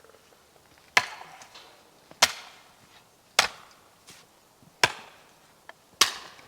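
Wood being chopped: five sharp, evenly paced strikes a little over a second apart, each with a short ringing tail.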